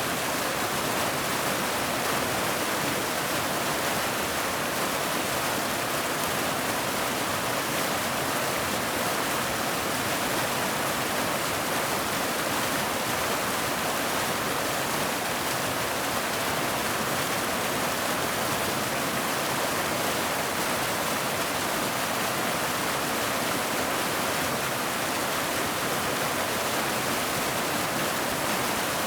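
Waterfall: steady, unbroken rush of falling water, even in level throughout.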